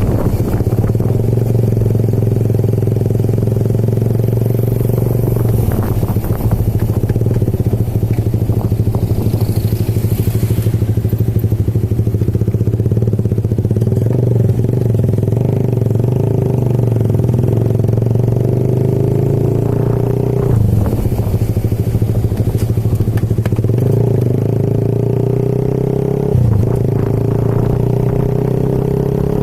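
Motorcycle engine running steadily while riding, its pitch wavering slightly, with a few brief knocks.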